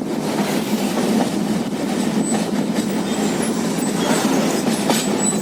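Passenger train running at speed, a steady noise of its wheels on the rails, heard from aboard the moving train.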